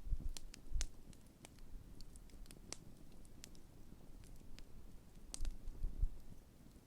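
Large wood campfire burning, with irregular sharp crackles and pops over a low rumble of the flames.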